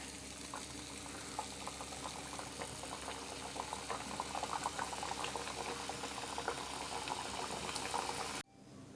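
Puris deep-frying in hot oil on a medium flame: steady sizzling and bubbling with small crackles. It cuts off suddenly near the end.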